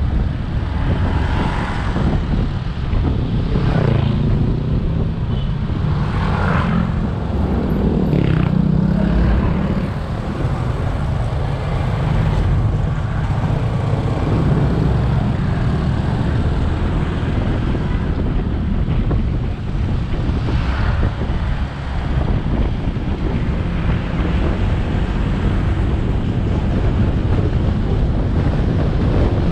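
Motorcycle engine running under way, with wind rushing over the camera microphone and road noise. The engine note swells and falls several times in the first ten seconds and once more about two-thirds of the way through.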